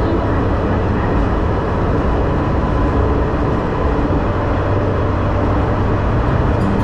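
Diesel railcar running, a steady rumble and running noise with a low engine drone.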